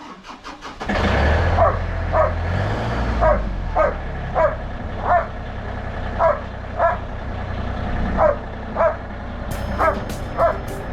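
A tractor engine starts a little under a second in and runs on with a low rumble, while a dog barks over it at a steady pace, roughly one to two barks a second.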